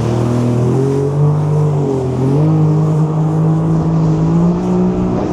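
Jet ski engine running at steady high revs while circling in donuts, its note climbing slightly in a step about two and a half seconds in and then holding.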